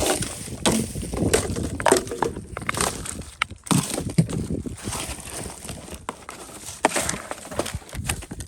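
Irregular clicks, taps and short scraping and crunching noises of hand work on a phone being taken apart and repaired, with no steady rhythm.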